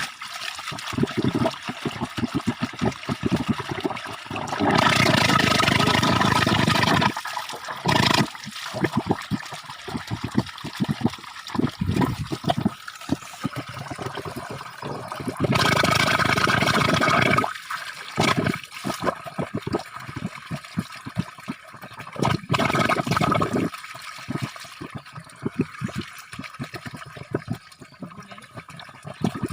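Water spurting and gurgling out of the ground in irregular, choppy surges, with two longer, louder gushes of about two seconds each, about five and sixteen seconds in.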